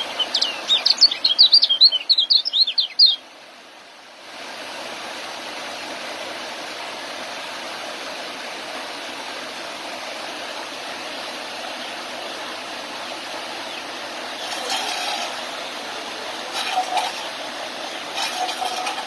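Young white-eye (kecial) singing a fast run of high, twittering chirps for about three seconds before it cuts off abruptly. A steady rushing background noise follows for the rest.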